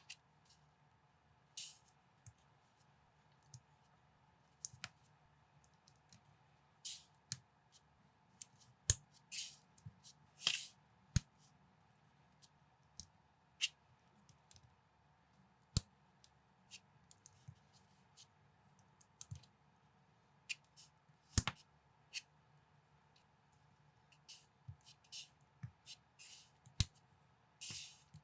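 Plastic building bricks being handled and pressed together: irregular sharp clicks and short scraping rustles, the loudest click a little past the middle.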